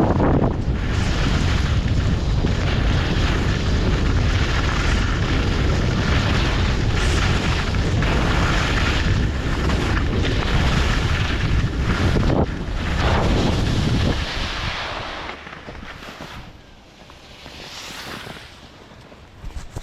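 Wind rushing over the microphone during a downhill ski run, a loud, steady rumble mixed with hiss. It dies away about fifteen seconds in, leaving a quieter hiss that swells briefly near the end.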